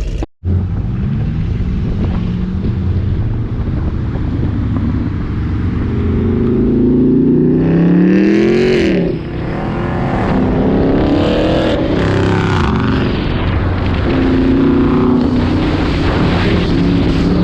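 Car engines running and revving. The pitch rises several times; the longest and loudest rev climbs from about six to nine seconds in and then cuts off.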